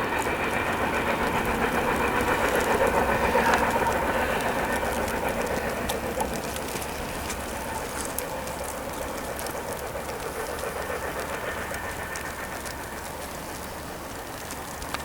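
Freight train rolling along the rails with scattered clicks from the wheels, its rumble fading gradually as it moves away.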